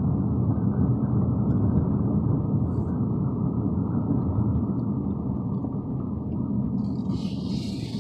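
Steady low rumble of a car driving, tyre and engine noise heard from inside the cabin. A brief hiss rises over it about seven seconds in.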